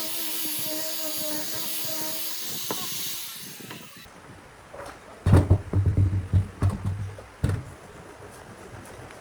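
A power tool runs with a steady whine and hiss, then winds down and stops after about two and a half seconds. About five seconds in, a quick series of heavy knocks and thuds lasts about two seconds, like wood being handled or struck.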